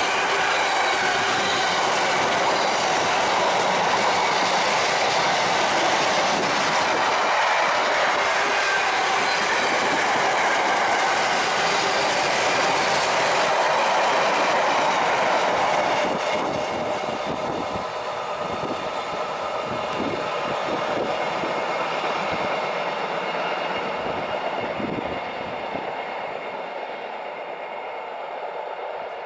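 Train passing on the line: a loud, steady rush of wheels on rail for about sixteen seconds, then dropping and fading as it draws away, with a few clicks of wheels over rail joints.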